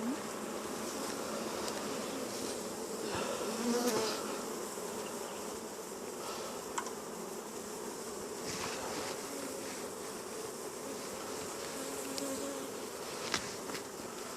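Honeybees buzzing steadily around an open hive, with a few short, light clicks from the hive parts.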